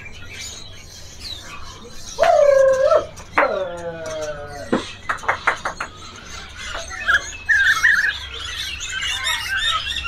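Many caged songbirds chirping and calling at once. Two loud, drawn-out calls come about two and three and a half seconds in, and a quick run of sharp clicks follows a second later. Thick high twittering fills the last few seconds.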